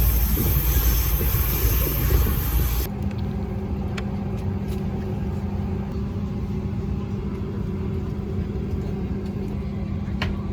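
Steady vehicle cabin rumble, most likely inside an airliner held on the ground. It is loud with a strong hiss until an abrupt cut about three seconds in, then drops to a quieter, even hum with a constant low drone.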